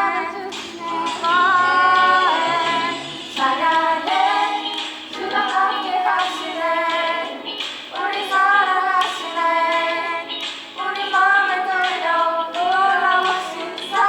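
Children singing a Korean Christian praise song, with backing music under the voices.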